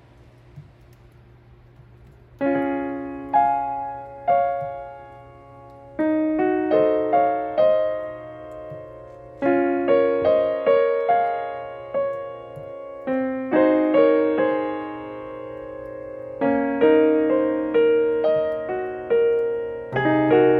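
Solo piano music, notes and chords struck and left to ring, beginning about two and a half seconds in after a quiet start.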